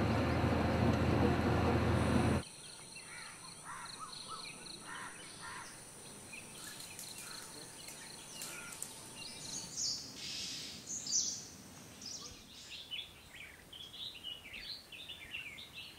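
Surf and wind noise from a beach that cuts off abruptly about two seconds in, giving way to many small birds chirping and calling in short notes, busier in the second half, over a faint high steady whine.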